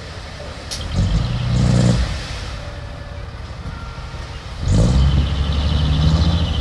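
Heavy earthmoving machine's engine running and revving up twice, once about a second in and again from near five seconds on, with a lower idle between the two. A sharp metallic clank comes just before the first rev.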